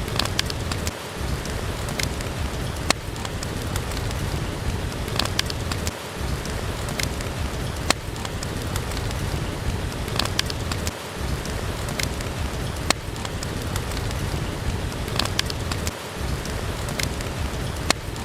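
Steady heavy rain hiss mixed with the sharp pops and clicks of a crackling wood fire. The bed dips briefly about every five seconds, like a repeating loop.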